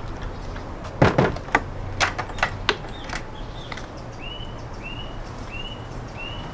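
A quick run of knocks and clatters, the first the loudest, followed by a bird repeating one short rising-and-falling chirp about every two-thirds of a second.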